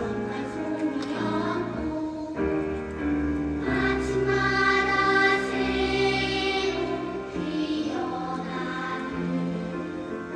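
Children's choir singing in parts, holding long notes that change every second or two.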